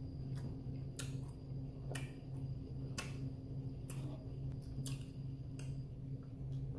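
Close-miked chewing of instant noodles, with short wet mouth clicks about once a second over a steady low hum.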